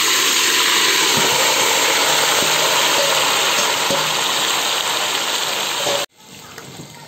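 Marinated chicken pieces sizzling loudly as they hit hot oil in a steel pot, a steady frying hiss that cuts off suddenly about six seconds in.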